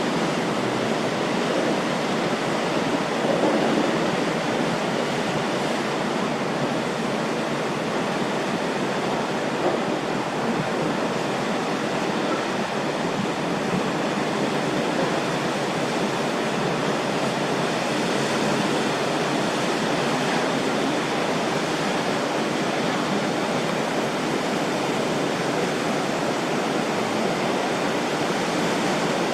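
Steady rushing noise of water and wind from a fast catamaran ferry under way, with no engine tone or distinct events standing out.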